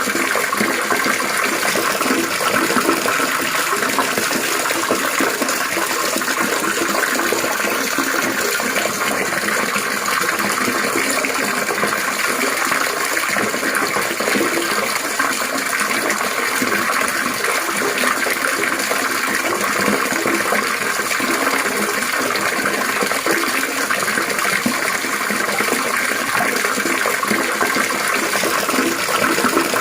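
Water trickling and splashing steadily without a break, a continuous babbling-water sound.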